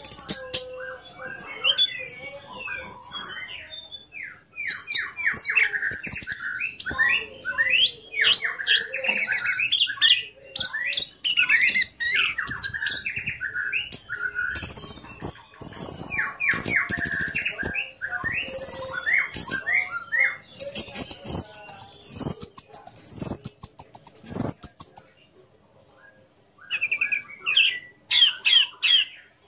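Orange-headed thrush singing a long, varied song of rapid chirps, trills and sustained high warbled phrases. It pauses briefly about 25 seconds in, then starts again.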